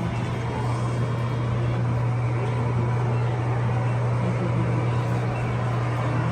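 Steady low engine drone of a running vehicle, with a constant rushing noise and no change in pitch.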